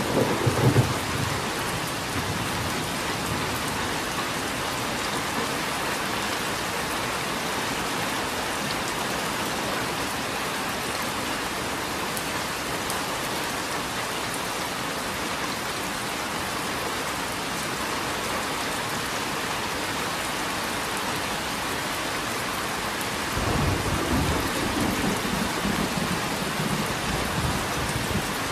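Steady rain falling. A low roll of thunder dies away about a second in, and another long rumble of thunder comes in near the end.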